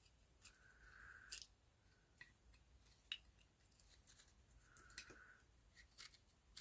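Faint small clicks and two brief light scrapes from an old light switch and its parts being handled and fitted into place.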